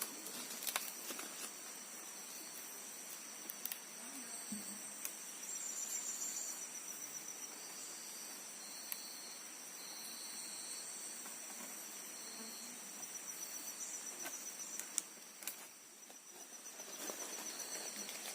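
Steady chorus of forest insects: high-pitched continuous drones with shorter repeated calls coming and going beneath them, broken by a few faint clicks and rustles.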